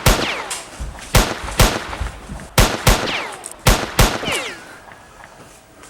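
Gunshot sound effects: about seven sharp shots over roughly four seconds, several in quick pairs, each trailed by a falling ringing tone.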